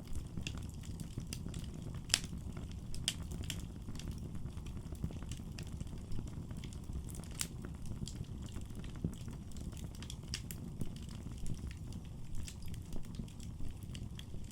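Wood fire burning in a fireplace, with a low steady rumble of flames and irregular sharp crackles and pops from the burning wood.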